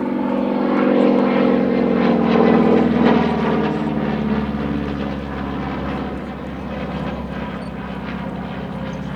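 Pratt & Whitney R-1340 nine-cylinder radial engine and three-blade propeller of a modified North American T-6 'Super Six' passing by, its pitch falling as it goes past, loudest two to three seconds in, then running steadier and a little quieter.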